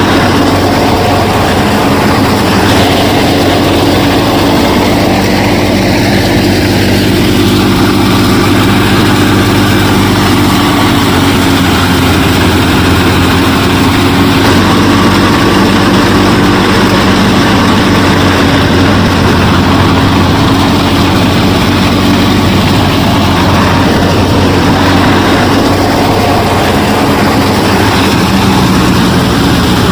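The motor of a DIY miniature combine harvester running steadily, a constant droning hum that does not rise or fall.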